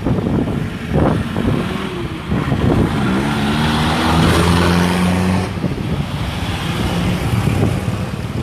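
A vehicle engine revving up, its pitch rising about two and a half seconds in and then holding steady for a few seconds, over the general noise of traffic on the street.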